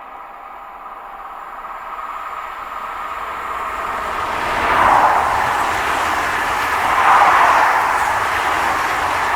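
A regional train approaching and passing: a steady whine at first, then rolling noise that grows louder, with three loud swells about two seconds apart as it goes by.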